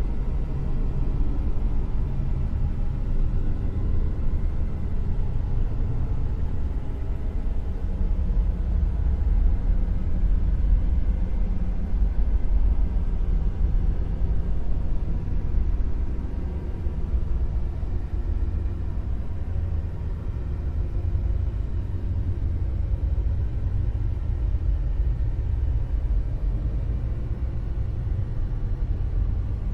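Dark noise sound effect: a steady, deep rumbling hiss with its weight in the low bass, rising and falling gently in level like slow waves.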